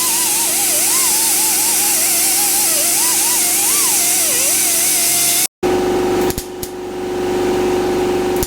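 A power tool running with a loud hiss and a wavering whine. It cuts off abruptly about five and a half seconds in, and a steady hum follows, broken by a few sharp clicks.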